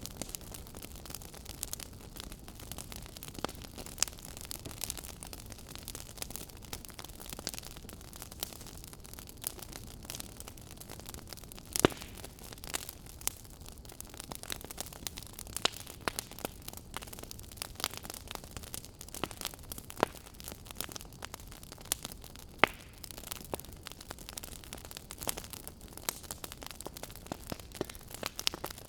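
Wood fire crackling in a fireplace: a steady low hiss with irregular sharp pops and snaps, a few of them louder than the rest.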